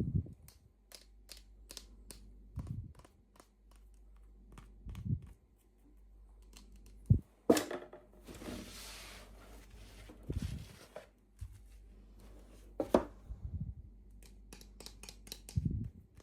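Handling noises from opening toy packaging: scattered small clicks and taps, a few louder knocks, and a stretch of tearing or crinkling from about eight to eleven seconds in.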